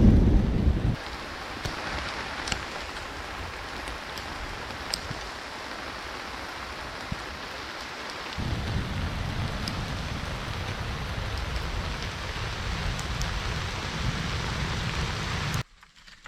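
Steady rain falling, with scattered sharp drop hits. A deep low rumble sounds in the first second and returns about halfway through, and everything cuts off suddenly just before the end.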